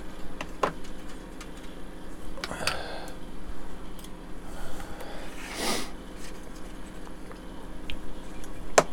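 Old glued plastic model kit being prised apart by hand: scattered sharp clicks and small cracks, with two short scraping rasps, the loudest a sharp click near the end, over a steady low hum.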